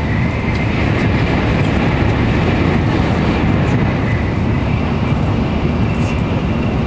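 Shinkansen bullet train running at high speed, heard from inside the passenger car: a steady low rumble of wheels and air, with a faint high whine held throughout.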